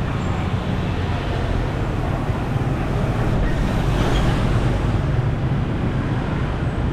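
Steady city street traffic: a dense rumble of passing road vehicles, swelling slightly about four seconds in.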